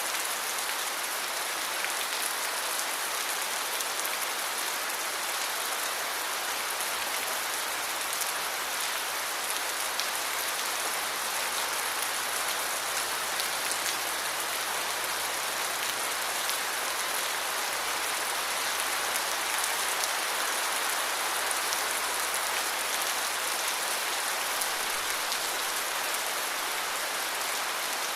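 Steady heavy rain falling and pattering on surfaces, a dense even hiss with fine drop ticks.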